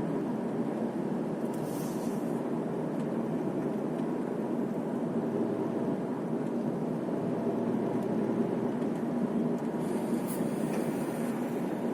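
Steady road and engine noise inside a moving car's cabin: a low hum over tyre rumble. Brief hissing swells come twice, about two seconds in and near the end.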